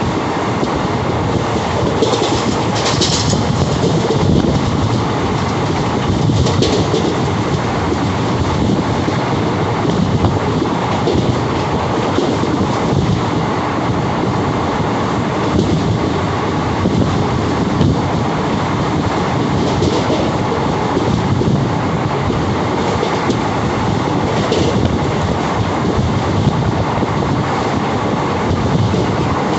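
Steady running noise of a moving passenger train heard from on board: a continuous rumble and rattle with wheels clacking on the rails. A few brief high-pitched squeaks come through about two to three seconds in, again a few seconds later, and once near the end.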